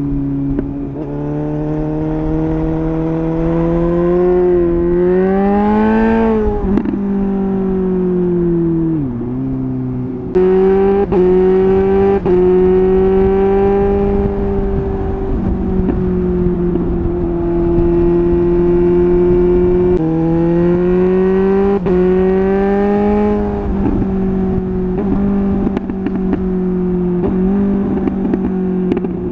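Suzuki GSR 750 inline-four breathing through a MIVV Double Gun exhaust under way. The engine note rises and falls with throttle and gear changes, climbing to a peak about six seconds in and dropping away, then surging up again and holding a steady cruise for several seconds before another climb.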